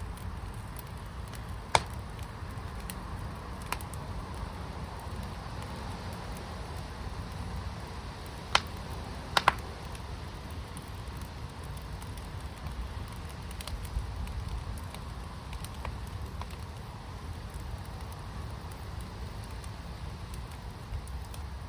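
Fire in a firepit burning with a steady low rumble and occasional sharp pops: one about two seconds in and three close together near the middle.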